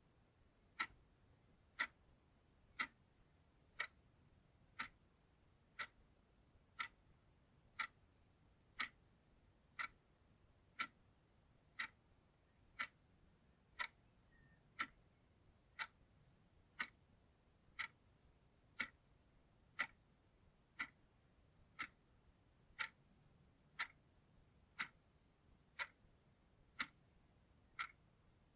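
Clock ticking steadily, one crisp tick each second.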